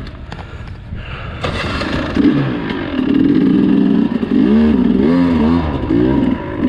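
Dirt bike engine revving hard in repeated surges, its pitch swooping up and down as the throttle is worked, typical of a rider fighting through a technical obstacle. It grows loud about two seconds in.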